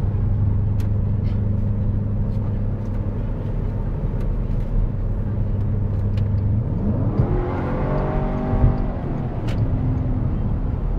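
Porsche Cayenne Turbo's V8 running through a Tubi aftermarket exhaust, first a steady low drone while cruising. About seven seconds in it revs up sharply under acceleration, climbing in pitch, then levels off and eases back.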